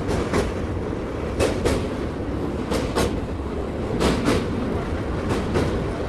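Wheels of a moving passenger train clicking over rail joints in pairs, about one pair every second and a half, over a steady rolling rumble.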